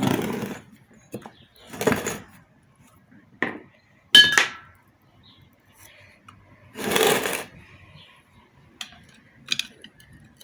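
Metal pump parts and tools being handled on a workbench: several short scraping and rattling noises and one sharp, ringing metallic clink about four seconds in, with small ticks near the end.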